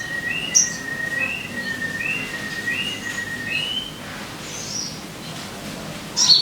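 Sogon bird song: short rising chirps about every 0.6 s over a steady, held high note. It stops a little before four seconds in, and a sharp loud high call comes near the end.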